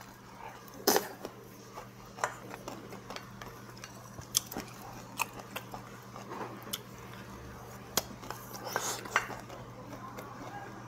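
Close-up eating sounds of a man chewing braised silkworm pupae, with scattered sharp clicks of a wooden spoon scooping them from a ceramic bowl.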